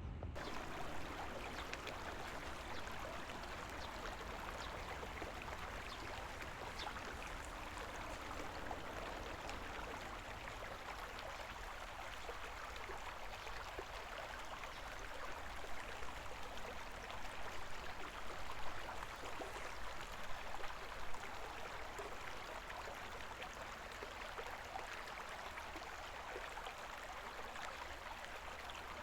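Shallow river water babbling steadily over stones, with a few sharper splashes a little past the middle.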